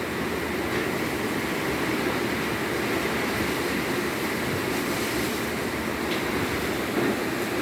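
Strong wind blowing, a steady rushing noise that holds at an even level throughout.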